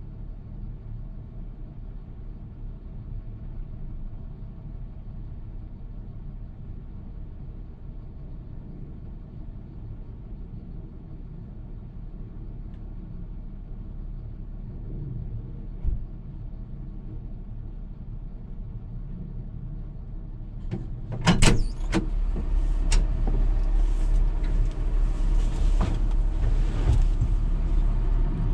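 A vehicle engine running steadily with a low rumble. About 21 s in there is a short burst of knocks and clatter, and after it the sound is louder and noisier, with a few more knocks near the end.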